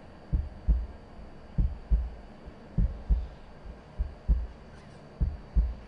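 Deep thumps in pairs, one pair about every second and a quarter, in a steady heartbeat-like rhythm over a faint hiss.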